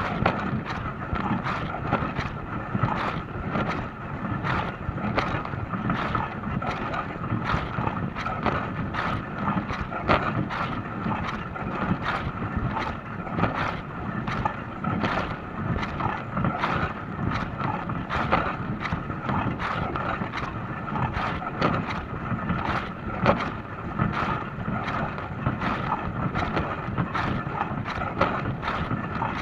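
Dishwasher running its wash cycle: water spraying and splashing steadily inside the tub, with a constant hum and many small irregular splashes.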